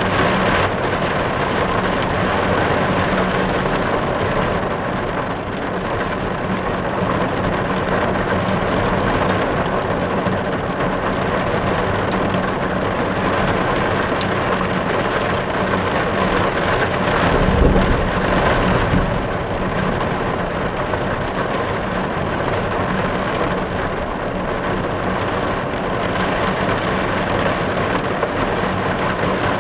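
Steady rain falling on a car's roof and windows, heard from inside the car, with a brief low rumble about eighteen seconds in.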